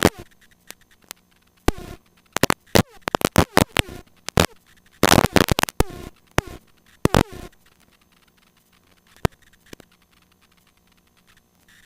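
Irregular crackles and pops on the helicopter's intercom/radio audio, in short clusters with near silence between them and a quiet gap of a few seconds near the end.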